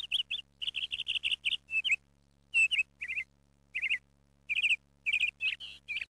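Small birds chirping: quick runs of short, high chirps broken by brief pauses.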